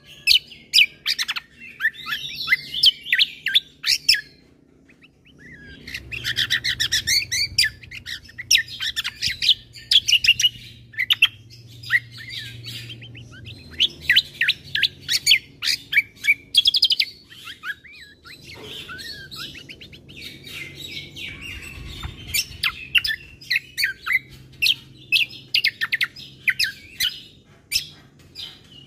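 Kecial kombo (cucak kombo) songbird singing a long, rapid, varied song of quick chirps and trills, breaking off briefly about five seconds in. This is the full 'isian' song of the kind played to other kecial kombo to set them singing.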